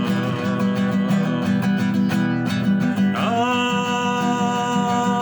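Song accompaniment: acoustic guitar strumming steadily, with a long held melodic note coming in about three seconds in.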